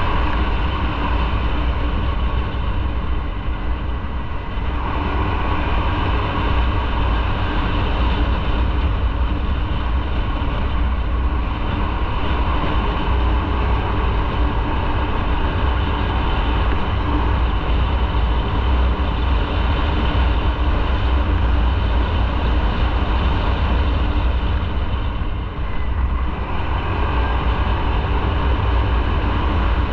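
Motorcycle on the move: engine running with steady wind and road noise, easing briefly about four seconds in and again near the end.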